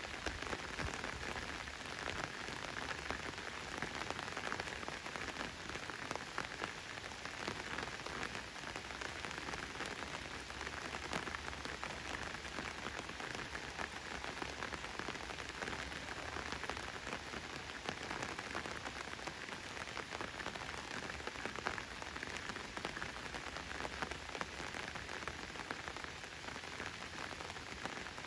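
Steady rain falling, an even hiss with a dense patter of individual drops.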